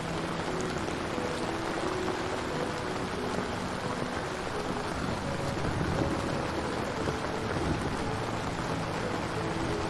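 Steady rain falling, with soft, sparse piano notes sounding underneath.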